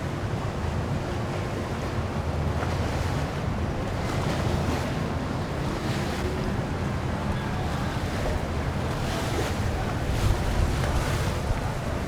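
Wind buffeting the microphone over water washing and the low, steady rumble of boat engines on the river.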